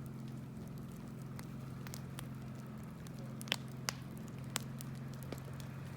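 Wood bonfire crackling, with scattered sharp pops, three louder ones in the second half, over a steady low hum.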